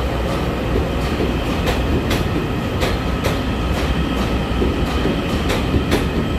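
Taiwan Railway EMU900 electric commuter train pulling out of the station past the platform: a steady rumble with wheels clicking over rail joints about twice a second.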